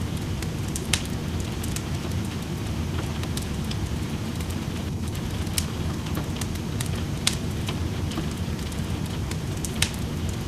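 Wood fire in a fireplace crackling, with scattered sharp pops, the loudest four over a dense background of small crackles, against a steady low rush of rain.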